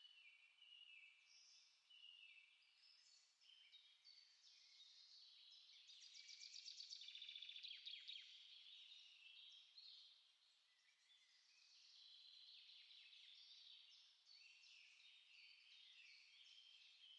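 Quiet songbird chorus: several small birds chirping and singing in short, high phrases that overlap. A rapid trill about six seconds in is the loudest part.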